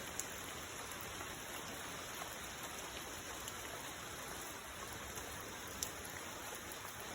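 Steady rain falling: an even hiss with scattered faint drop ticks and a sharper tick about six seconds in.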